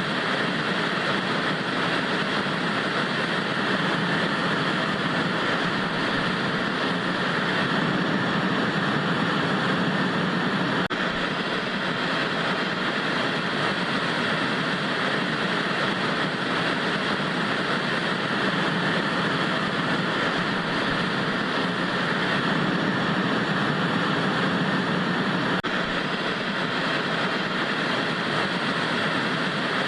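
Analogue TV static: a steady, even hiss with no deep rumble that holds unchanged throughout.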